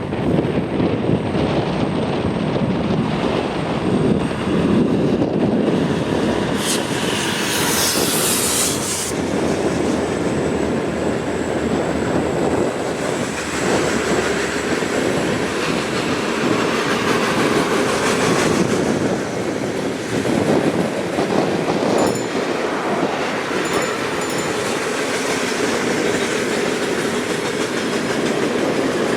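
Freight cars of a Canadian National limestone train rolling past: a steady rumble of steel wheels clacking over rail joints, with a few brief wheel squeals.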